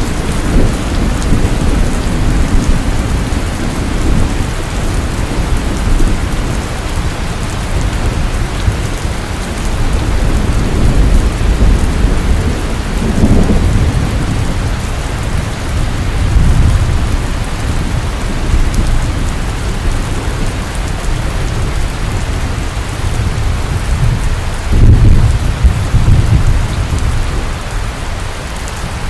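Steady rain falling, a constant hiss, with low rumbles that swell up several times, the loudest about 25 seconds in.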